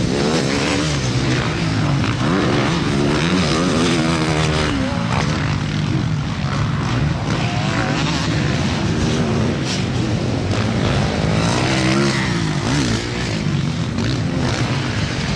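Several motocross motorcycle engines running together on the track, their pitch rising and falling over and over as the riders rev and shift.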